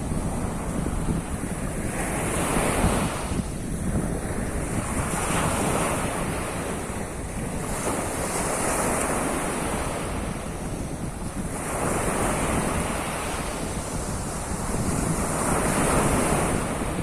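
Sea of Azov surf: waves break and wash onto the shore about every three to four seconds, over a steady rumble of wind on the microphone.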